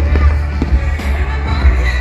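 Music playing loudly with fireworks banging over it, several sharp bursts in two seconds, over a constant deep low rumble.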